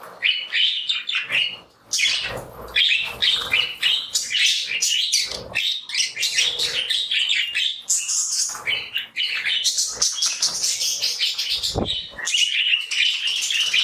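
A flock of budgerigars chirping and warbling continuously in many overlapping short calls, with a brief thump near the end.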